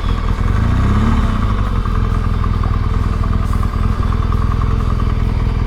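Motorcycle engine at low revs, rising briefly in pitch about half a second in, then running steadily with an even low putter.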